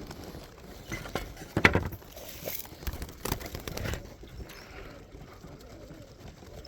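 Pigeons moving about a loft: a few light knocks and rustling wing flutters, about two seconds in and again a little later.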